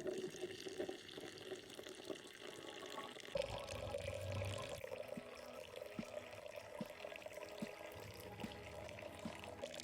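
Liquid running and pouring, with small drips, as peach iced tea is prepared. The sound gets fuller about three seconds in.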